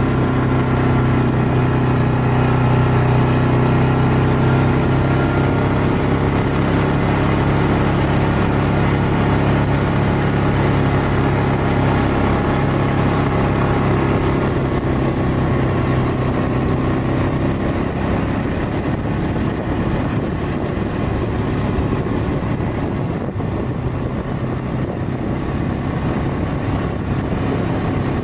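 Quad bike engine running as the bike is ridden along, a steady note for the first half that turns rougher and less even after about halfway.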